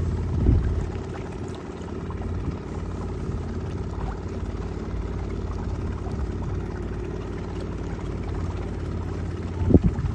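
Boat engine running steadily with a low hum, with a dull thud about half a second in and another near the end.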